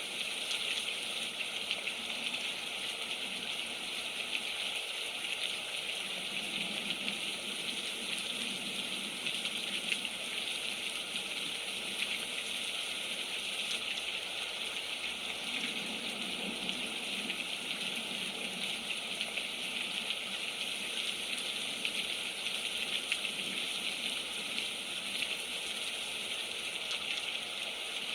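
Steady rain falling: an even hiss of many drops with fine patter, unchanging throughout.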